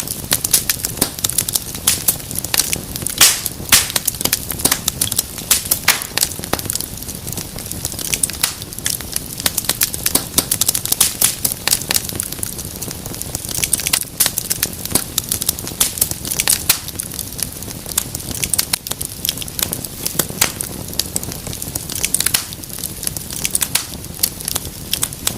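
Wood fire crackling in a fireplace: dense, irregular pops and snaps over a steady low hiss of burning.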